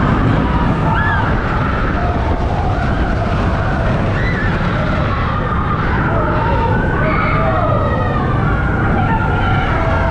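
Steel roller coaster train running at speed, heard from the front row: a steady loud rush of wind and track rumble. Over it come many short rising and falling cries from the riders.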